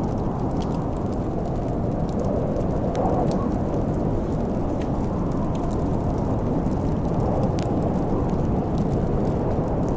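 Wood fire crackling with scattered sharp pops over a steady low rumble of storm wind.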